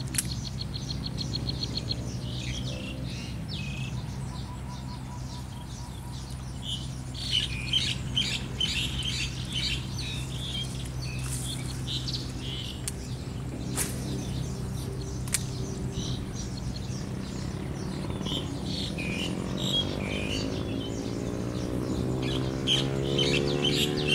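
Small birds chirping again and again in short calls, with a fast trill near the start, over a steady low hum. A rising whine comes in near the end.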